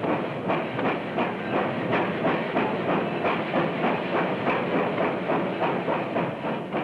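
Train running along the rails with a steady rhythmic clatter, about three beats a second.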